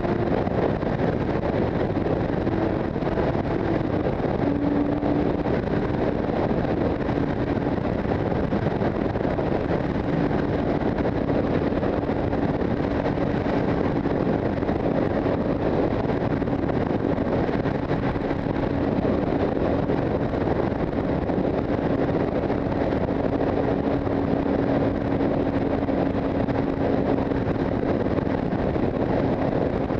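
Motorcycle engine running at a steady cruising speed, its even drone almost buried under heavy wind rushing over the microphone.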